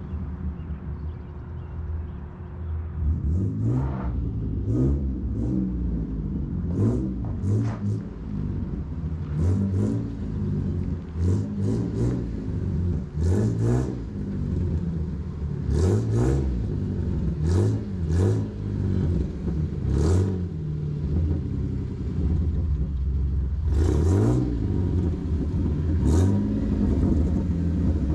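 2007 Jeep Wrangler's 3.8-litre V6, exhausting through long-tube headers and only a cherry bomb glass-pack muffler with no cats or resonators, idling and then revved again and again in quick blips up to around 3,500 rpm. The exhaust note is raspy, like a fart can.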